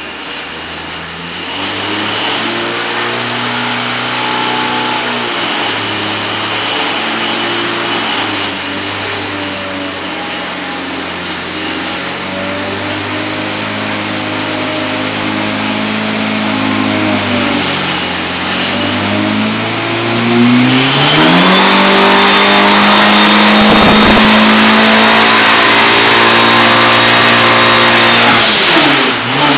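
Ford 2300 four-cylinder engine with a Holset HX35 turbocharger running on an engine dyno. It holds a series of steady speeds, then about twenty seconds in climbs quickly to a high speed and holds there under load, loudest and with a steady high whine, before dropping off sharply near the end as the pull finishes.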